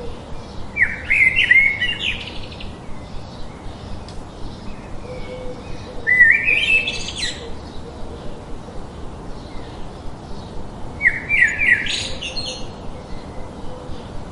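A songbird singing three short phrases, each a quick run of notes stepping up in pitch, about five seconds apart. Faint, regular chirping carries on between them.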